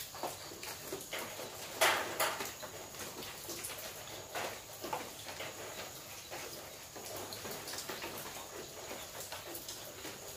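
Rain falling on a corrugated zinc roof: a steady hiss with irregular louder drops striking the metal, the loudest a little under two seconds in.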